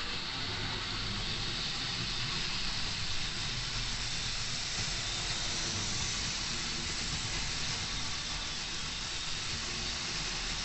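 Tri-ang OO gauge model locomotive running on the track, a steady motor whirr and rail noise with an even hiss.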